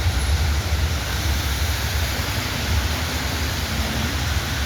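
Light rail train rumbling past: a steady low rumble with an even hiss over it.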